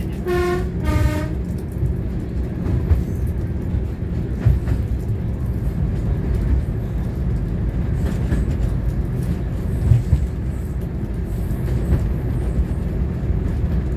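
Diesel multiple unit heard from its front cab: two short horn notes, the second lower, about half a second in, then the steady low rumble of the train running along the track with a few knocks from the wheels.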